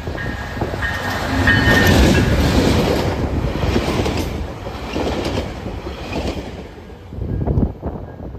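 Tri-Rail commuter train, a locomotive and bi-level coaches, passing close by at speed. It is loudest as the locomotive goes by about two seconds in. The wheels clack over the rail joints as the coaches follow, then the sound fades, with a last clack near the end.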